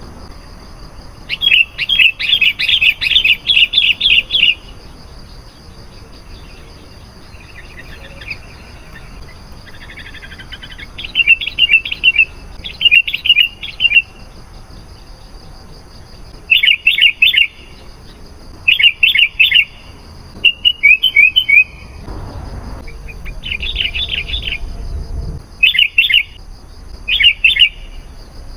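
Sooty-headed bulbul singing: short, rapid bubbly phrases repeated again and again with brief pauses between them. A faint steady high hum runs underneath, and a low rumble of noise rises for a few seconds near the end.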